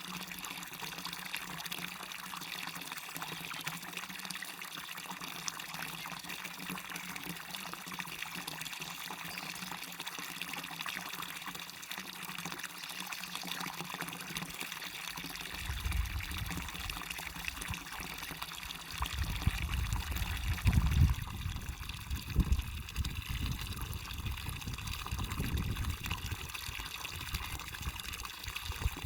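Small waterfall and stream flowing steadily, a continuous splashing rush. From about halfway, an irregular low rumble comes and goes over the water sound and is the loudest part.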